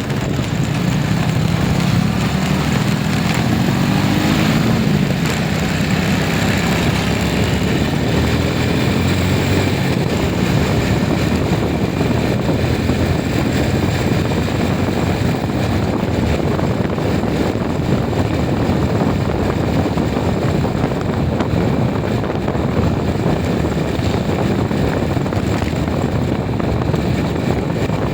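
A vehicle's engine running under a thick, steady rush of road and wind noise, its pitch rising over the first few seconds as it speeds up.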